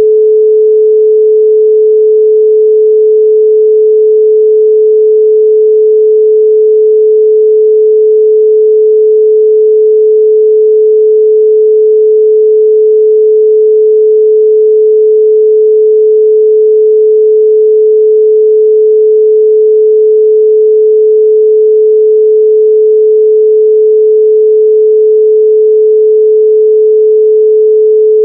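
A steady 432 Hz pure sine tone, one unchanging electronic pitch held loud throughout.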